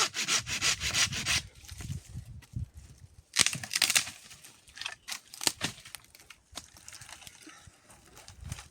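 Saw cutting through wood in quick, even strokes, about four a second, which stop about a second and a half in. After that come scattered knocks and scrapes of wood being handled, with one loud scrape about three and a half seconds in.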